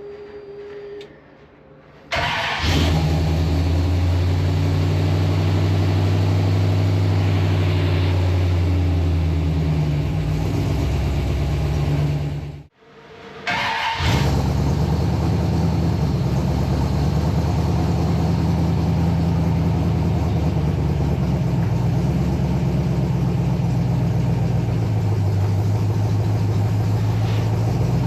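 Old Ford pickup's engine running steadily after starting about two seconds in. It cuts off abruptly about halfway through and picks up again a second later.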